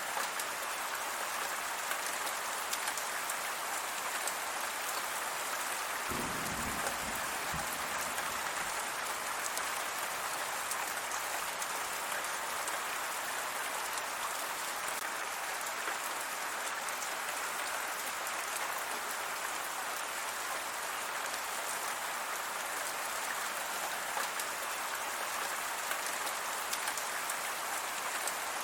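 Steady rainfall, an even hiss of many drops hitting surfaces, with a brief low rumble about six seconds in.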